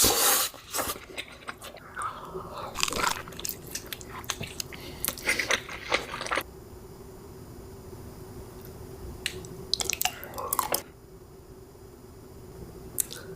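Close-up biting and crunchy chewing of a rolled tortilla-chip snack (a blue Taki), with dense crunches through the first six seconds, then a quieter pause and a few more bursts of chewing around ten seconds in and near the end.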